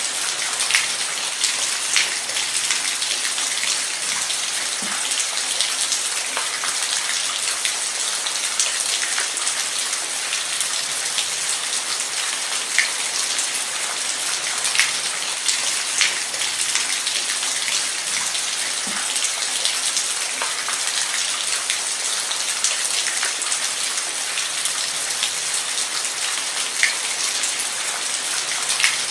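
Steady rain falling on a surface, an even hiss with scattered single drops ticking through it.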